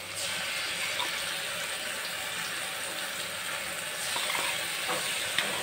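Masala frying in hot oil with freshly added ground tomato, a steady sizzling hiss with a few faint taps.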